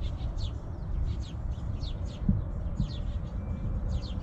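A small bird chirping over and over, short falling notes about two or three a second, over a steady low rumble.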